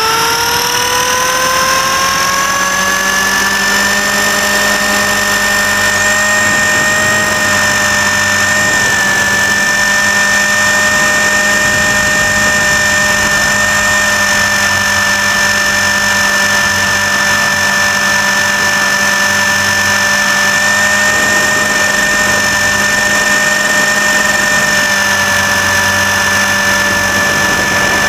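RC helicopter's motor and rotor drivetrain heard from a camera mounted on board: a whine that rises in pitch over the first few seconds as it spools up, then holds a steady high whine.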